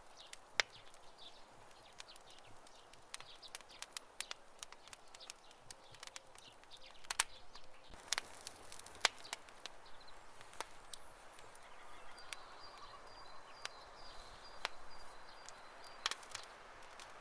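Wood campfire crackling: irregular sharp pops and snaps, some louder than others, over a soft steady hiss.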